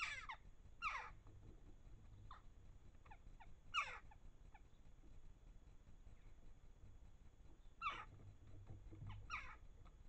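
Garden birds calling: short calls that each sweep steeply down in pitch. The louder ones come right at the start, at about one, four and eight seconds, and near the end, with fainter calls in between.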